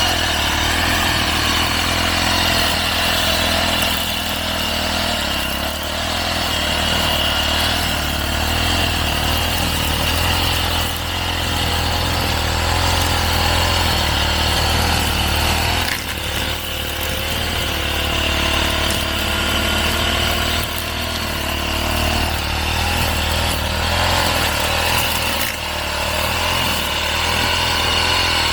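Petrol brush cutter running steadily as it cuts grass, its engine note dipping briefly a few times as the load changes.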